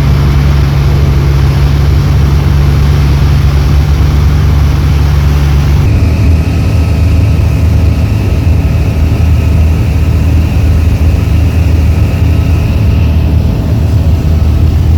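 Light aircraft engine and propeller running steadily and loudly. About six seconds in, its sound shifts and settles at a different steady pitch.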